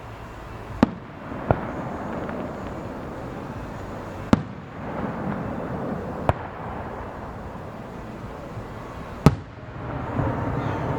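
Fireworks shells bursting: five sharp bangs spaced one to three seconds apart over a steady background rumble.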